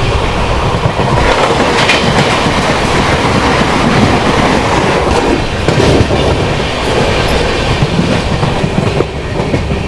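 Express train coaches running at speed across a river bridge: a loud, steady rumble of wheels on rails, with a few sharp clacks over the rail joints.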